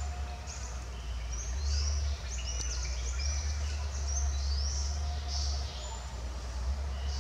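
Birds chirping over and over in short, high calls, some rising quickly in pitch, over a steady low rumble.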